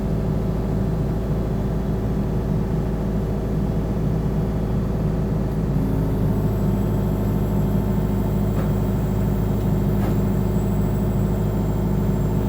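120-size excavator's diesel engine running steadily under load, heard from inside the cab, as the machine holds and swings a lifted toolbox; the tone shifts slightly about six seconds in.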